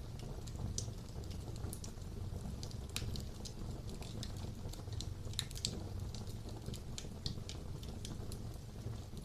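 Wood fire burning in a fireplace: a low steady rumble of flames with irregular crackling and a few sharper pops.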